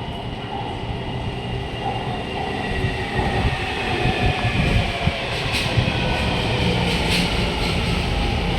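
Taipei Metro C321 train pulling into a station platform, its rumble growing louder as it nears. Several whining tones fall slowly in pitch as it slows, with a couple of sharp clicks in the middle.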